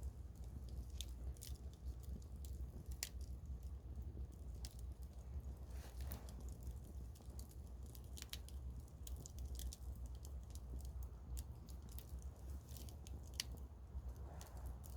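Wood campfire crackling, with irregular sharp pops and snaps from the burning logs over a steady low rumble.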